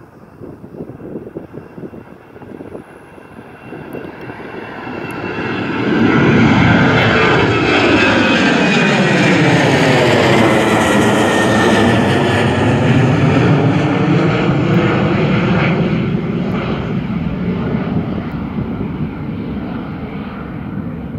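Departing jet airliner's engines at takeoff thrust, swelling to a loud roar as it passes and then slowly fading, with a falling whine and a sweeping, phasing quality as it goes by.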